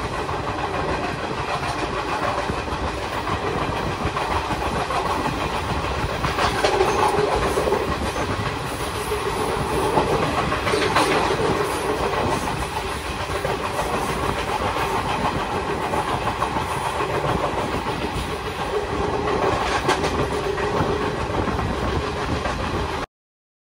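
Passenger train running along the track: steady wheel-and-rail noise with clickety-clack over the rail joints, louder clatter a few times. The sound cuts off suddenly near the end.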